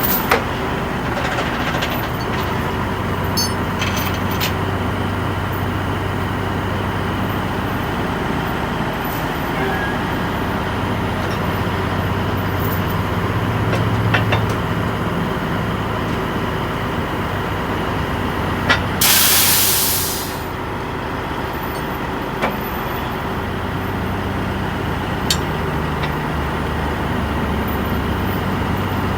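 Vehicle engine running steadily with road noise. About two-thirds of the way through, a loud hiss lasts about a second and a half.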